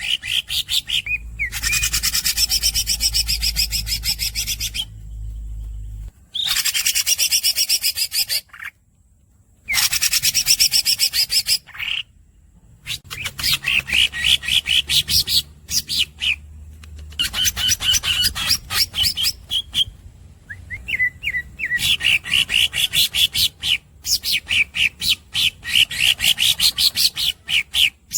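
Green leafbird (cucak ijo) singing in long rolls: fast runs of rapidly repeated high chirps, several a second, in phrases a few seconds long with brief pauses between.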